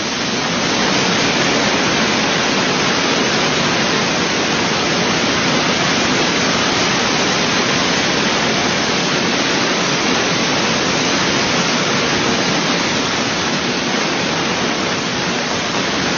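Heavy hail falling in a severe hailstorm: a loud, dense, steady hiss of countless stones striking. It cuts off suddenly at the end.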